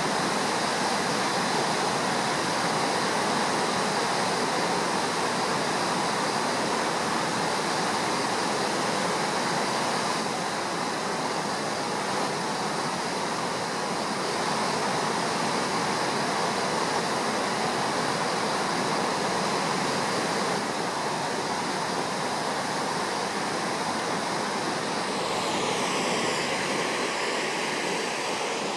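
A muddy river in flood after a typhoon, rushing steadily as a loud, even roar of water. Near the end a faint gliding whine joins in.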